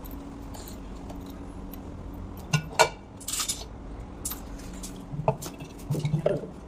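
Hard metal objects clinking and clattering a few times, with a short hiss in the middle, over a steady low hum.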